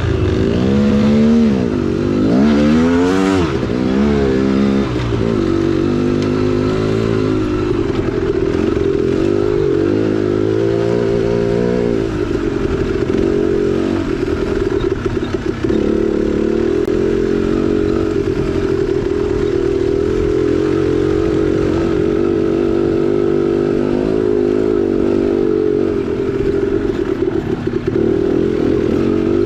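2010 KTM 300XC-W's single-cylinder two-stroke engine under way on a trail, revving up and down repeatedly through the first dozen seconds, then running at a steadier pitch.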